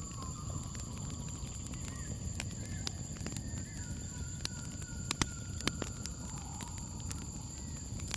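Campfire crackling, with scattered sharp pops from the burning wood (a few louder ones about five seconds in) over a low rumble of the flames. A steady high cricket chirring runs underneath.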